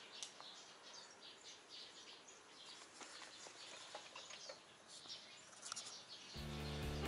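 Faint birds chirping: many short, high chirps with a few light clicks. Music starts near the end.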